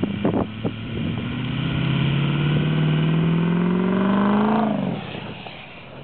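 Straight-piped exhaust of a Ford F-350 Super Duty, its engine note climbing steadily under throttle for about four seconds, then dropping away sharply as the throttle is released.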